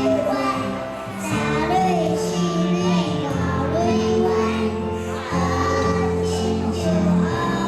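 Children singing a Taiwanese children's song to a steady instrumental accompaniment.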